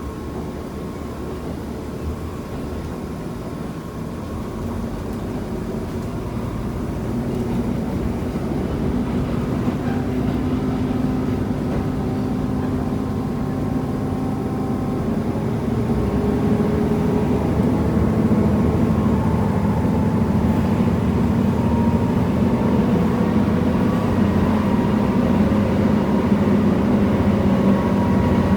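KiHa 75 diesel railcar heard from on board, its diesel engine under power as the train gathers speed. The engine note steps up in pitch twice and the sound grows steadily louder.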